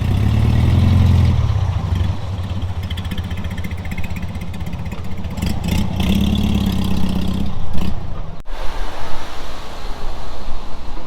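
Supercar engine running with a loud, deep rumble, swelling at the start and again about six seconds in. About eight seconds in the sound breaks off abruptly into a rushing noise.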